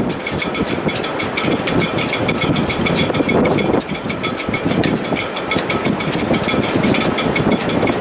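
Sailboat shrouds and rigging in a strong wind: a steady rush of wind with a fast, even rattling and a thin whistle through the wires.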